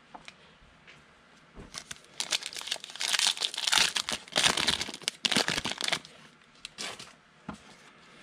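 Foil trading-card pack being torn open and its wrapper crinkled, an irregular crackling that builds about two seconds in, is loudest in the middle and dies away near the end.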